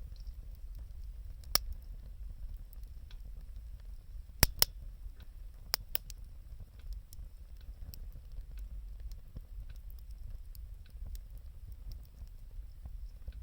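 Wood fire crackling, with sharp pops scattered through, the loudest a quick pair about four and a half seconds in, over a steady low rumble.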